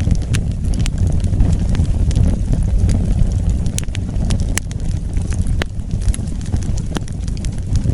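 Wood fire burning: a steady low rumble of flames with scattered sharp crackles and pops, roughly one or two a second.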